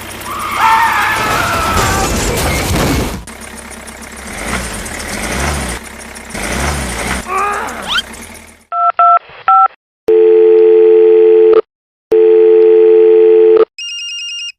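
An engine-like running sound with high squeaky glides over it stops abruptly about two thirds of the way in. Telephone tones follow: a few short keypad beeps, two long, loud ringing tones with a short gap between them, then a higher steady tone.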